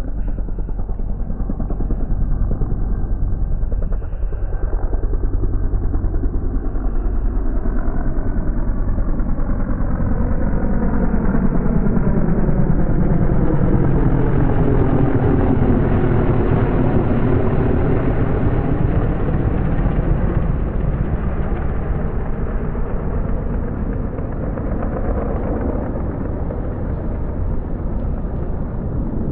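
UH-60 Black Hawk helicopter flying low overhead: the chop of its rotor blades and the whine of its twin turbine engines. It grows louder to a peak about halfway through, its pitch bends as it passes, and then it fades.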